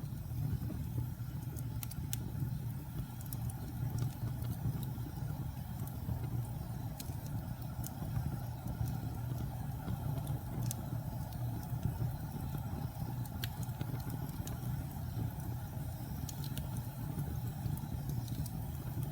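Wood fire burning in a fireplace: a steady low rumble with sparse sharp crackles and pops every second or two.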